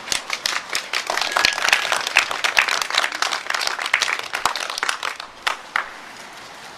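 A group of people applauding, the clapping dense at first, then thinning out and stopping about six seconds in.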